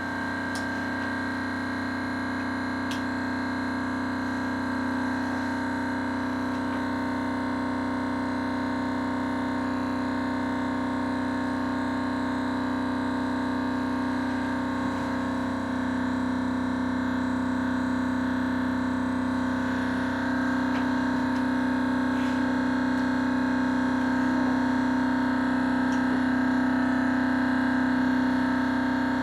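Thermoacoustic engine running with a steady tone of constant pitch and overtones, growing slowly louder.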